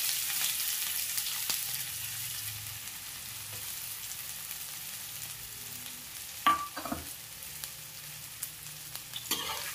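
Freshly added chopped onion and garlic sizzling in hot oil with cumin seeds in a kadhai, the sizzle slowly easing off. There is a short sharp knock about six and a half seconds in.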